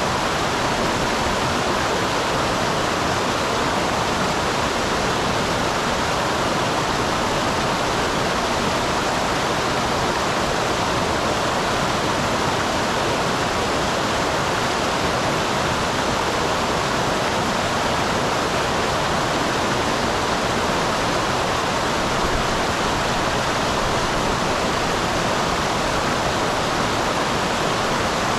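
Small waterfall in a mountain stream: water rushing and splashing over rocks in a steady, even roar that does not change.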